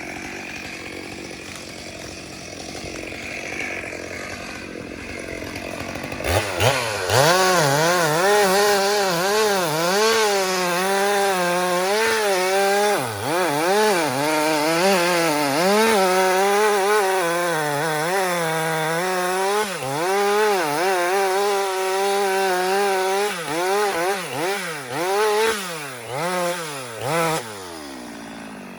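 Two-stroke chainsaw running low for several seconds, then opened up to full throttle about six seconds in and cutting wood. Its pitch sags and recovers again and again as the chain bites, and the revs drop away near the end.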